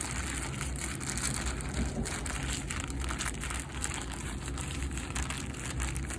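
Plastic sandwich bag crinkling and crackling steadily as an oil-soaked foam air filter is squeezed and kneaded inside it to work the motor oil through the foam.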